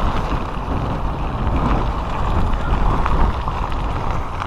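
Strong typhoon wind buffeting a phone's microphone: a loud, continuous rumbling roar of wind noise with gusts rising and falling.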